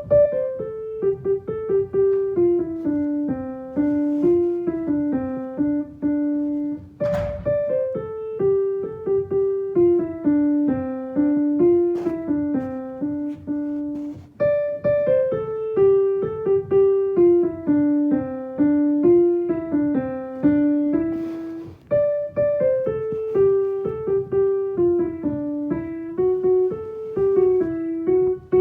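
Piano playing the soprano part of a choral piece on its own, one melody line note by note, in phrases that start high and step down and repeat about every seven seconds.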